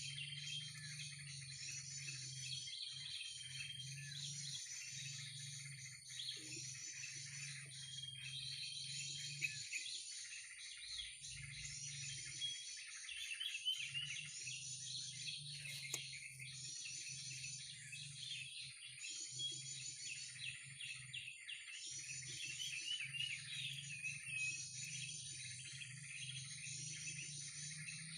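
Bird-call lure sounds used for trapping: birds chattering and twittering in quick bursts that repeat about every two seconds, over a steady high whine and a low hum.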